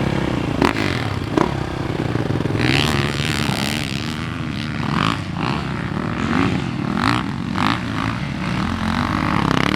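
Dirt bike engine running on a motocross track, its pitch rising and falling as the throttle opens and closes, with rushing noise over it. Two sharp knocks come a little under a second in and again about a second and a half in.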